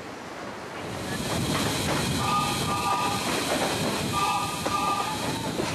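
Narrow-gauge electric train of the Palma–Sóller railway running with wheels clattering over the rails. About two seconds in it sounds its horn in one long blast, then in two shorter blasts.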